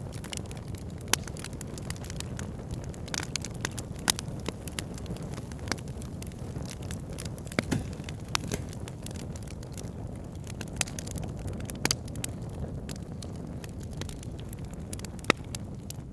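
Wood fire burning in a fireplace: steady low flame rumble under frequent crackling, with a few sharper, louder pops scattered through.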